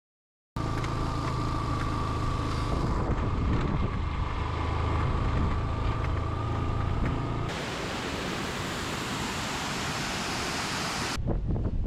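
Outdoor wind noise on the microphone over a low steady engine-like drone with a thin steady whine, switching abruptly about seven seconds in to an even rushing hiss, then cutting near the end to scattered ticks.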